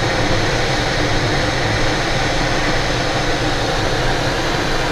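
Steady rushing airflow noise heard inside a glider's cockpit in flight, even and unbroken.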